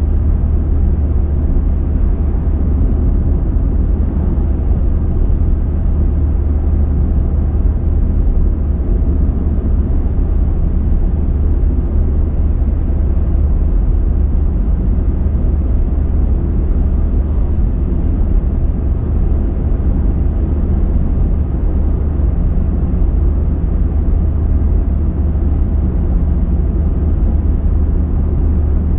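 Car driving along at steady speed: a continuous low rumble of road and tyre noise with engine hum, unchanging throughout.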